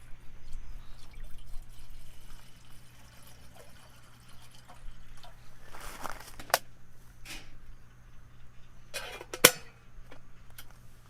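Liquid trickling and dripping, with two short sharp clicks, the second one near the end the loudest.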